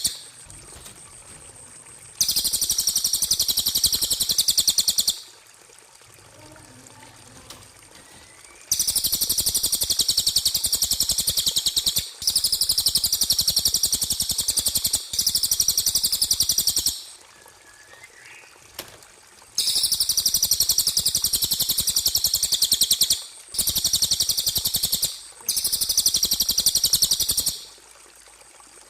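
Bird-song training recording (masteran) playing bouts of a high, very fast buzzing trill, each lasting two to four seconds and starting and stopping abruptly, about seven times. Faint chirps sit in the quiet gaps between bouts.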